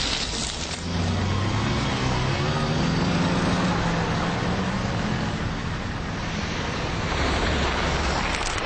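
Road traffic on a city street: cars driving past at close range, their engine hum rising and falling as one passes, over steady tyre noise.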